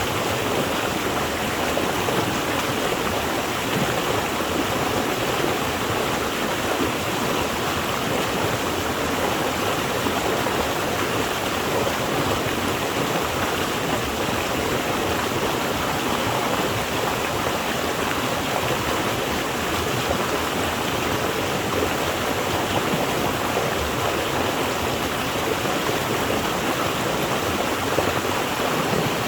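Water flowing steadily over rocks in a stream or small waterfall, a constant even rush without a break.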